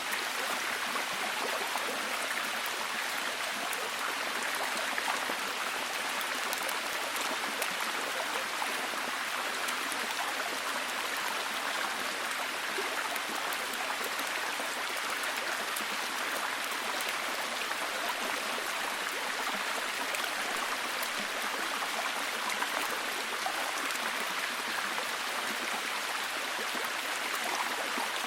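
Heavy, steady rain falling: an even hiss with fine pattering of drops.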